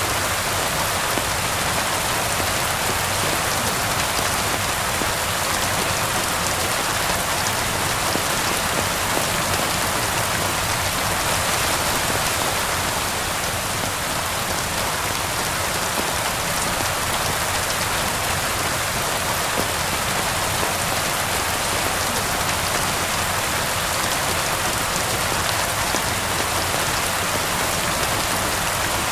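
Steady rain falling, an even, unbroken hiss of drops on surfaces with no change in strength.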